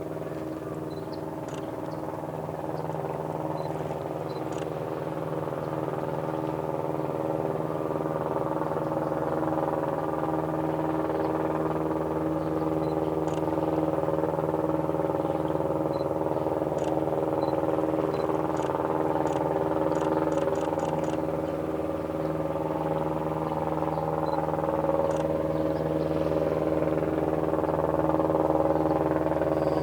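A motor running at a steady speed, a constant hum with several fixed tones, slowly growing louder, with faint short ticks above it.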